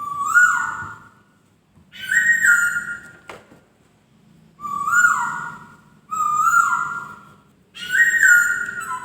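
Poksay (laughingthrush) singing loud, clear whistled phrases, each about a second long with a sudden step in pitch, five in a row with short gaps between. A single sharp click about a third of the way through.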